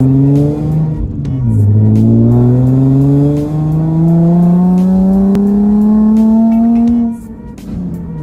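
Nissan 350Z's 3.5-litre V6 heard from inside the cabin, accelerating through the gears: the revs drop at a shift about a second in, then climb steadily for about five seconds before the engine goes quiet near the end as the driver lifts off for the next shift.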